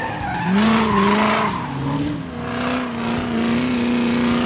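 Race-car engine sound effect for a toy car. Its pitch rises about half a second in, dips, climbs again and then holds steady.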